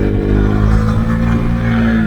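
Husqvarna Svartpilen 401's single-cylinder engine running through an Akrapovic exhaust with the dB-killer removed, pulling under load with the revs climbing slowly in the second half.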